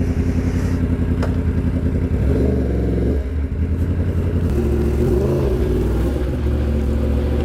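Motorcycle engine running low with an even pulsing beat; its pitch rises and falls briefly between about two and three seconds in, then settles back to a steady run.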